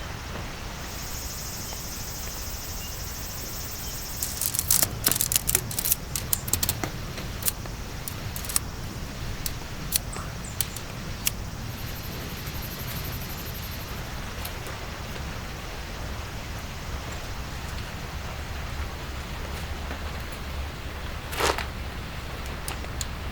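Steady hiss of falling rain, with a run of sharp clicks and taps from about four to eleven seconds in and another sharp tap near the end.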